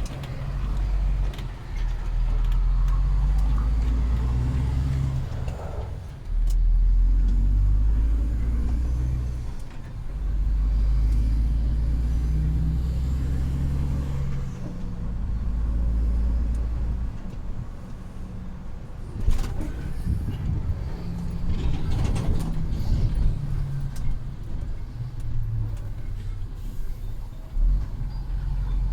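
Heavy truck engine running while driving: a steady low rumble whose level and pitch change several times, with a few short rattles or clicks about two-thirds of the way through.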